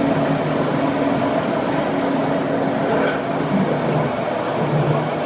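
A machine running steadily with a constant low hum and a noisy mechanical bed.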